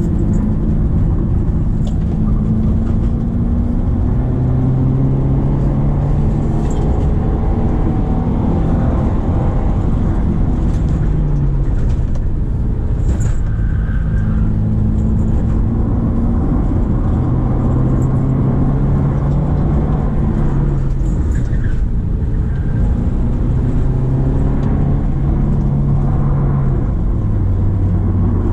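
Subaru Impreza XV's 2.0-litre boxer four-cylinder engine pulling under load up a hill, its revs rising and falling several times as the car is driven through the gears.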